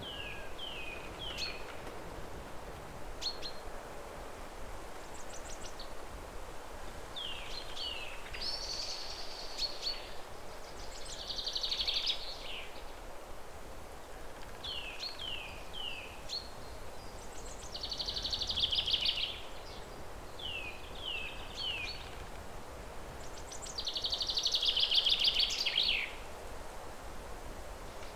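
Forest songbird singing a repeated phrase: a few quick down-slurred chirps followed by a rapid trill, the trills the loudest parts, recurring every six seconds or so. Underneath runs a steady background hiss.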